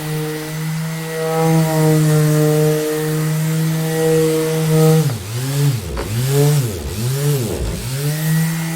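Electric orbital sander running with a steady hum. A little past halfway, its speed sags and recovers several times in quick succession, then settles back to the steady hum.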